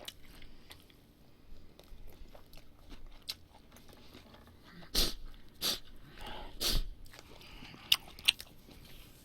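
Close-miked chewing and wet mouth sounds of someone eating grilled pork belly and duck, with small clicks throughout and a few louder smacking bites between about five and seven seconds in, then two sharp clicks near the eight-second mark.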